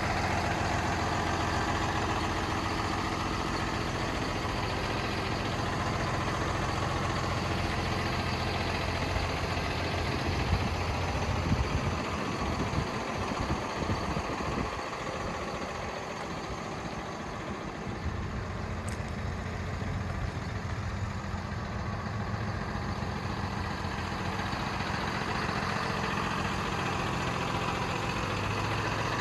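Cummins ISB six-cylinder diesel of a 2011 Freightliner M2 dump truck idling steadily. A few short louder knocks come about a third of the way in, and the low engine note weakens and breaks up for several seconds after them before it settles again.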